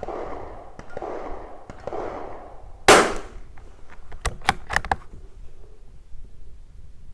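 A single .22 LR shot from a Tikka T1x bolt-action rimfire rifle about three seconds in, followed a second later by the bolt being worked: a quick run of sharp metallic clicks. Before the shot, the shooter's slow, regular breathing.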